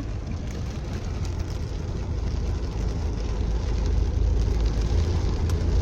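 A car driving along, a steady low engine and road rumble that grows slowly louder.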